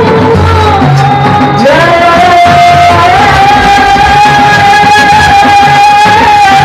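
A single voice singing long, drawn-out notes in a Middle Eastern style, with a pitch step a little before two seconds in, over drum accompaniment.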